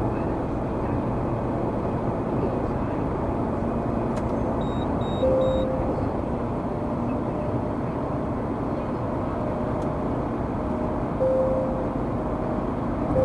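Steady road and engine noise of a vehicle under way. Short electronic beeps sound about 5 seconds in, again near 11 seconds and at the end.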